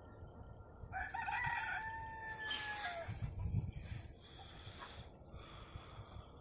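A rooster crows once: a single drawn-out call of about two seconds that drops in pitch as it ends, followed by a brief low rumble.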